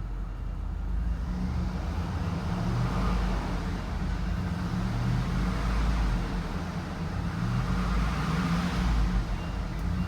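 2002 Cadillac Escalade's 6.0-litre V8 engine running and being revved, its sound swelling and falling back about three times. It revs up nice and smooth.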